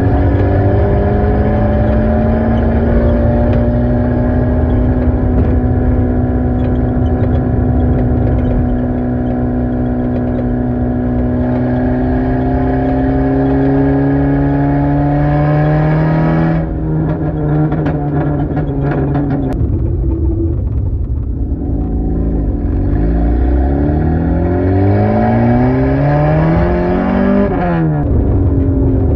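Peugeot 106 engine under acceleration, its pitch climbing slowly and steadily through the revs. About two-thirds of the way through, the revs drop sharply, then climb quickly again and fall off once more near the end, as with a gear change.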